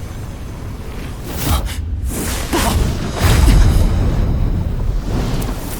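Animated-fight sound effects: whooshing sweeps a little over a second in and again about two and a half seconds in, then a deep, rumbling boom about three seconds in, all over a low background rumble and music.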